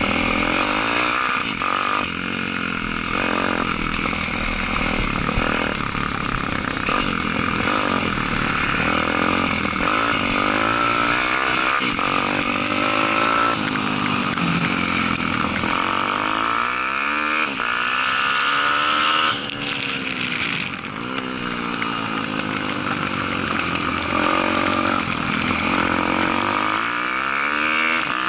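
Daytona 190 single-cylinder four-stroke pit bike engine at race pace, its pitch climbing and dropping over and over as the throttle is opened and closed. Heard from a camera mounted on the bike.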